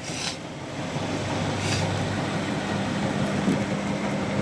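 Hotpoint Active Care washing machine spinning: a steady motor hum and drum whirr that builds over the first second or so, then holds.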